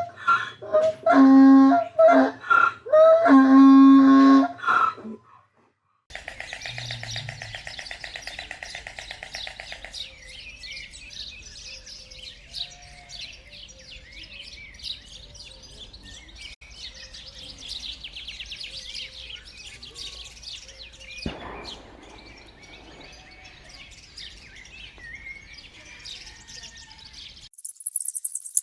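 A few loud pitched animal calls. After a short break comes a long stretch of many birds chirping and twittering, with a rapid buzzing trill over its first few seconds. A high hissing rattle follows near the end.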